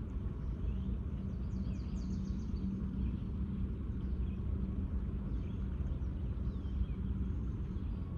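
Steady low outdoor rumble with a droning hum in it, and faint bird chirps above it, a run of them about two seconds in.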